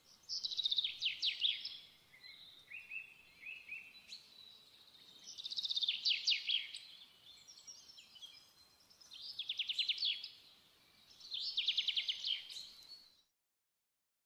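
A bird singing: four phrases of rapid, falling trilled notes a few seconds apart, with shorter chirps between. The song cuts off suddenly near the end.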